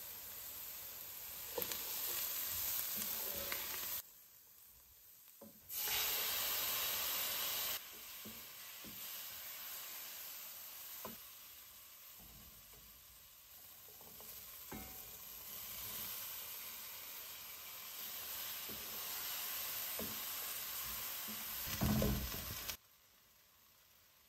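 Chopped onions, carrots and spices frying and sizzling in a nonstick pan while a spoon stirs them, with a few short knocks and scrapes of the spoon against the pan. The sizzle drops and returns abruptly a few times.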